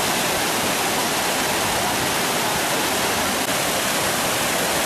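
Steady rushing of a waterfall close by, loud and unbroken.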